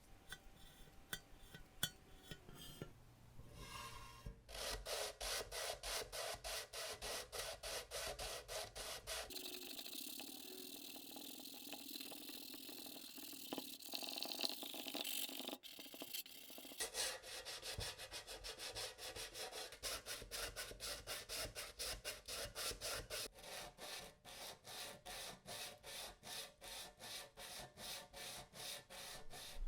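Hand abrading, a rough surface worked back and forth in steady rubbing strokes of about three a second. Partway through the strokes merge into a stretch of continuous rubbing, then the even strokes resume.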